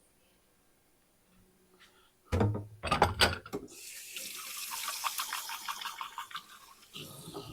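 Chunks of raw chicken dropped into hot sesame oil in a skillet: a few knocks and clatters, then sizzling and crackling that slowly dies down.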